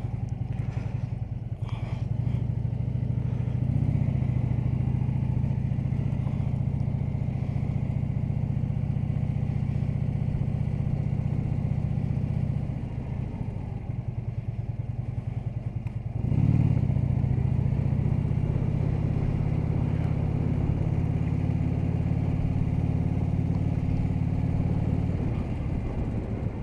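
Harley-Davidson touring motorcycle's V-twin engine running at cruising speed on the road. The engine eases off about halfway through, then pulls hard again a few seconds later and runs steadily on.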